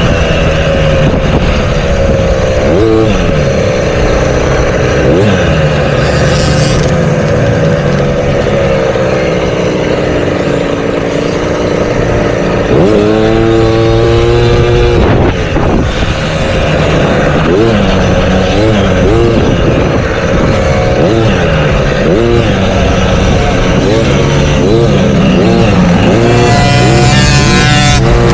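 Several motocross bikes riding, their engines revving up and dropping back over and over as they accelerate and shift, with more than one bike heard at once.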